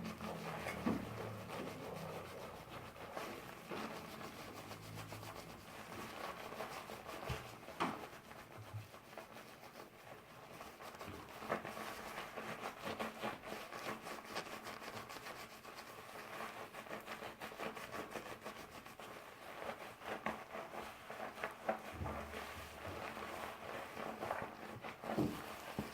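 Hands rubbing and working through a doll's hair up close: a steady rubbing with many small crackles and a few sharper clicks.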